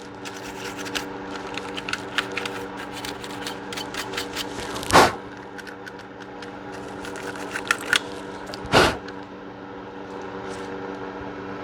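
Metal clicks and knocks of a Smith & Wesson 9 mm pistol being handled and taken down for cleaning: a run of small clicks, then two louder sharp metallic noises about five and nine seconds in.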